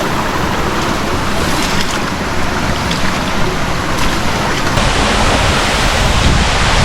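Steady rush of water flowing through a rocky canyon stream. About five seconds in it takes on a heavier low rumble.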